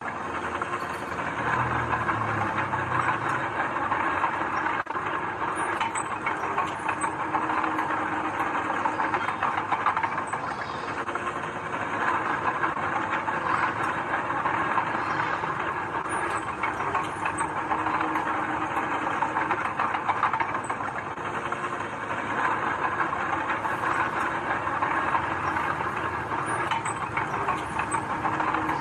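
Heavy earthmoving machinery running steadily: diesel engine noise with a rattling, clattering mechanical din.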